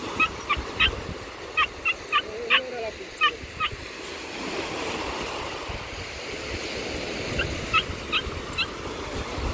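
Short, pitched bird calls in quick runs of several notes, over the steady wash of breaking surf.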